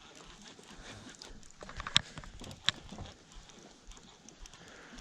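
Two sharp knocks, about two seconds in and again under a second later, over faint scattered clatter.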